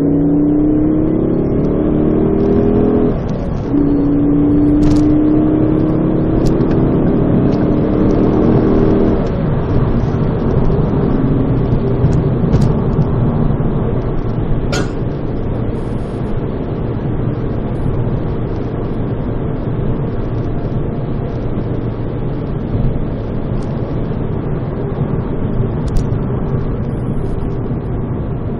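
Exhaust of a Ford ST with the resonator removed, heard from inside the cabin. The engine note rises under acceleration, breaks off briefly about three seconds in, then rises again until about nine seconds in. After that the pitched note fades into a steady rumble of road and engine noise.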